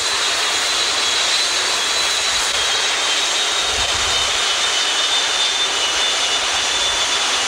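Jet engine of a Kenworth jet truck running steadily, a high whine over a broad, even roar.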